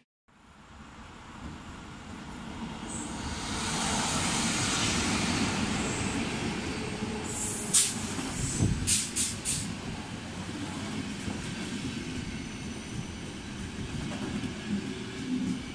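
Passenger train coaches rolling past along a platform: a steady rumble of wheels on rail that builds up over the first few seconds, with a few brief high-pitched sounds about halfway through.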